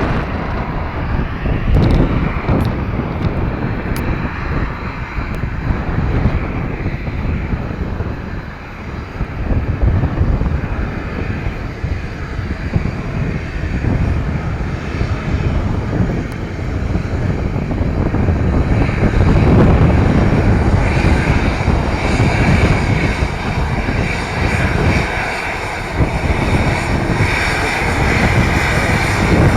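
Aircraft engines droning, with a steady whine that comes in and grows louder about two-thirds of the way through. Heavy wind buffets the microphone throughout.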